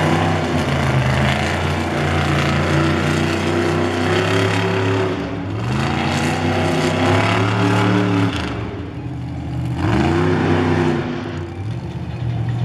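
Monster truck engine running hard at high revs. It drops off and climbs back up about five seconds in and again about ten seconds in.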